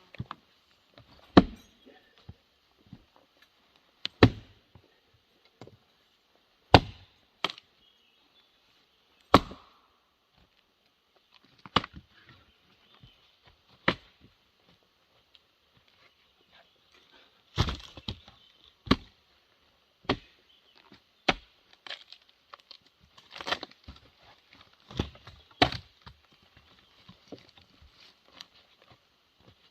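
Firewood being struck: sharp woody knocks, irregular, one every one to three seconds.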